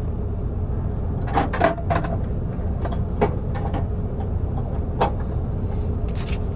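Idling truck engine, a steady low rumble, with several short clicks and knocks from objects being handled.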